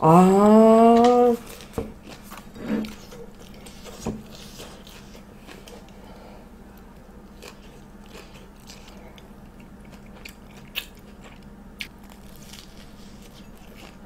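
A person chewing a fried cheddar cheese Korean corn dog, with a few soft crunches of the breaded coating and scattered wet mouth clicks. It opens with a loud closed-mouth 'mmm' that rises in pitch and lasts just over a second.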